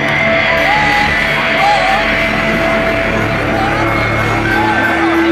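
Loud live rock music with sustained held notes, and voices yelling and singing over it.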